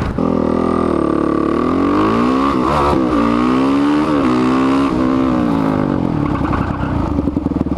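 Single-cylinder four-stroke engine of a Suzuki DR-Z bored to 462cc, running through an MRD exhaust under hard acceleration. The revs climb and drop sharply at two quick upshifts, climb again, then ease off to a lower, choppier note near the end.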